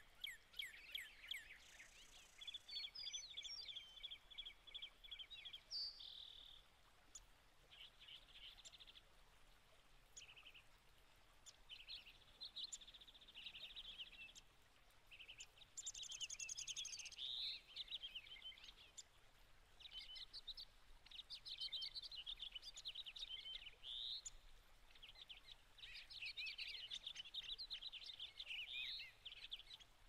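Songbirds chirping, trilling and whistling faintly, with many short varied calls one after another and a few higher buzzy passages.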